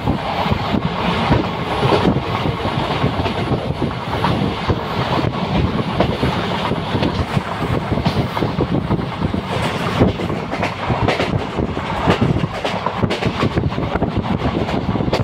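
Moving train heard from inside a coach: the steady rumble and rattle of the wheels on the track, with dense clattering over the rails throughout.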